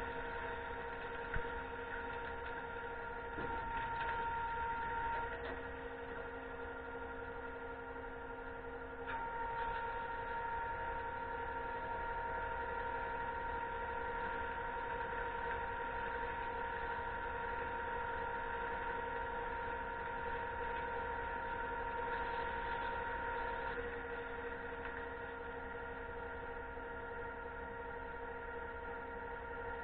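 Concrete pump truck running, a steady mechanical hum made of several held whining tones whose mix shifts a few times as the load changes.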